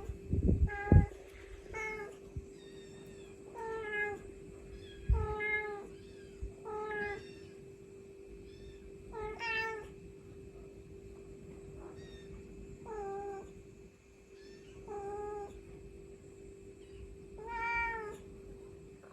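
A Li Hua (Chinese tabby) mother cat calling her kittens with about ten short meows, one every second or two, the gaps growing longer toward the end. A few low thumps come in the first second, and a steady hum runs underneath.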